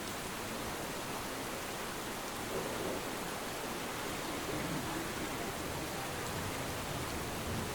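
Steady rain falling, an even dense hiss that swells slightly now and then.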